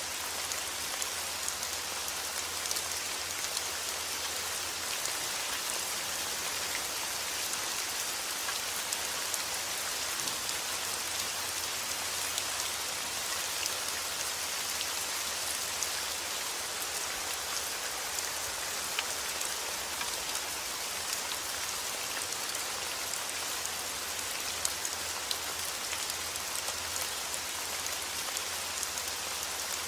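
Heavy rain falling steadily, a dense even hiss with many small drop impacts scattered through it.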